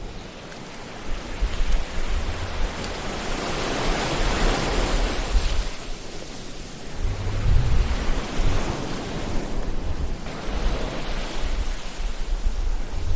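Ocean surf: waves surging and washing back in slow swells, louder about a third of the way in and again past halfway, with a low rumble under them.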